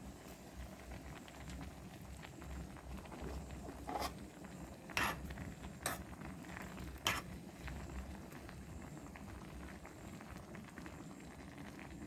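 Faint steady background noise with a few light clicks, four of them about a second apart between four and seven seconds in.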